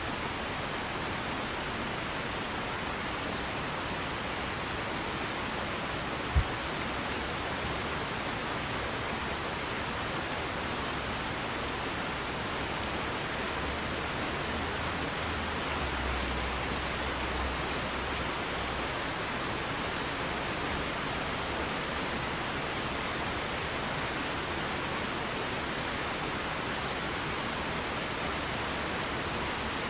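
Heavy rain falling steadily, a dense, even hiss. A single sharp click or knock about six seconds in.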